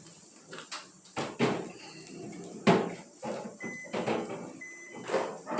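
A string of knocks and clatter from refrigerator shelves and drawers being handled and set down while they are dried, the loudest knock about a third of the way in, with two short high squeaks near the middle.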